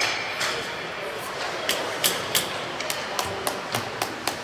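Sharp clacks of hockey sticks and puck on the ice, a dozen or so in quick irregular succession, coming faster in the second half, over a background murmur of voices in the rink.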